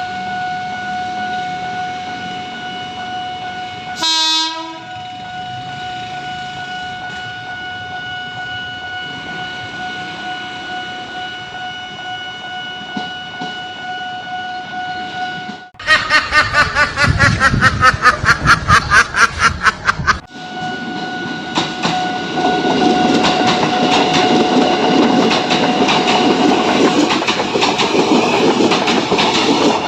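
A steady high tone sounds for about the first half, with a brief falling squeal about 4 seconds in. Then a train horn, or an edited sound effect over it, blares in loud pulses for about four seconds, and the train follows with rumbling and clickety-clack from its wheels over the rail joints.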